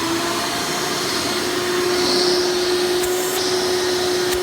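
1996 Hoover Elite Supreme upright vacuum, with a 7.2 amp direct-air motor fitted with a 20-blade fan, running steadily in tool mode with the on-board hose. It makes a loud rush of air with a steady whine, and a couple of brief clicks near the end.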